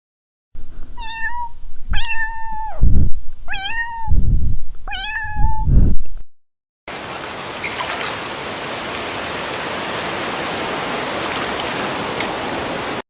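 A cat meowing four times, each call high, held steady and drawn out, with low thumps under the later calls. After a short break comes a steady, even hiss lasting about six seconds.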